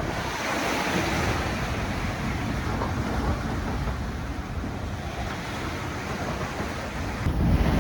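Wind and rough, whitecapped sea rushing past a sailboat under way, with a hiss of spray; the low rush grows louder near the end.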